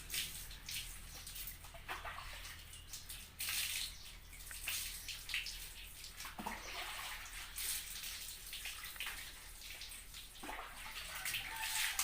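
Water being poured and splashed over a dog during its bath, coming in irregular splashing bursts.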